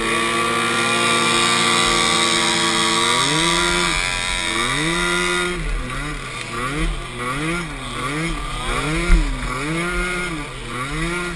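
Small youth pee wee ATV engine revving. Its pitch holds high and steady for about three seconds, then rises and falls roughly once a second as the throttle is worked on and off.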